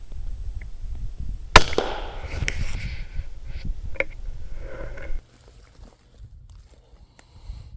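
A single sharp shot from a CZ 457 .22 LR rifle about a second and a half in, followed by a few lighter clicks. A low rumble underneath stops suddenly about five seconds in.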